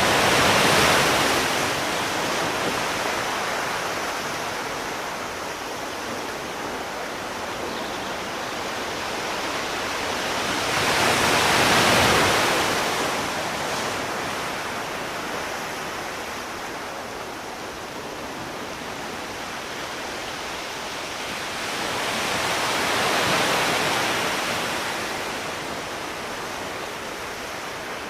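Sea surf: a steady wash of waves whose hiss swells three times, about every eleven seconds, as each wave breaks.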